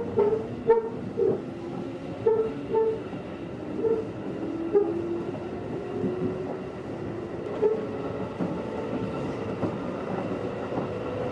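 Running sound of a JR 211-series electric train heard from on board: wheels knocking over rail joints or points at irregular intervals, mostly in the first half, over a steady rumble. A whine rises slowly in pitch through the second half as the train picks up speed.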